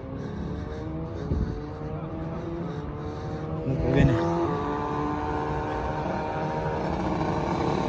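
A vehicle engine accelerating: its pitch rises steadily for about four seconds, then holds fairly steady at a higher speed.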